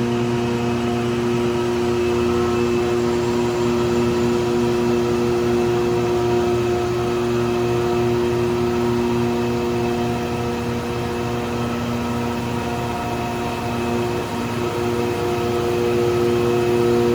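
PC6000 pavement grinding machine running steadily while diamond-cutting the concrete road surface for an NGCS texture, its engine and cutting drum giving a constant drone with several steady tones.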